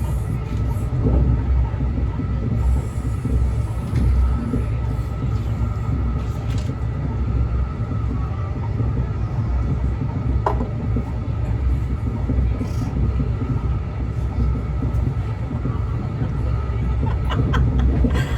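Brightline passenger train in motion: a steady low rumble with a faint constant whine above it and a few light clicks.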